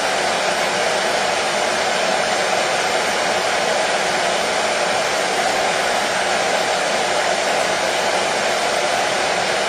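Hair dryer blowing steadily: an even, unbroken rush of air with no change in pitch or level, used as white noise to soothe a colicky baby to sleep.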